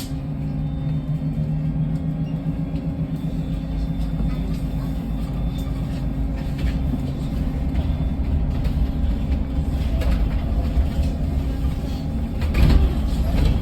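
Electric bus in motion, heard from inside the passenger cabin: a steady low road rumble with an electric drive hum. A louder knock or jolt comes near the end.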